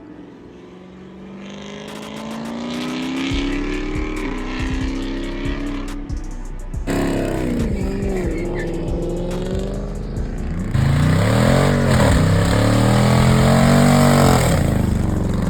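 High-performance cars revving and accelerating hard, the engine pitch rising and falling over several passes. Abrupt changes partway through, and the loudest run comes near the end.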